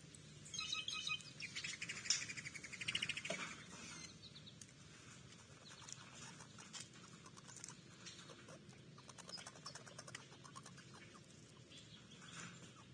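A songbird singing about half a second in: a quick series of high chirps running into a fast trill, lasting about three seconds. After that, faint scattered ticks and a few soft chirps near the end.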